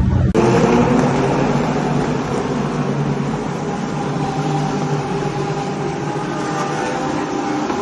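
Motor vehicle engine running steadily with heavy road noise, starting abruptly just after a cut; its pitch sags slightly near the end.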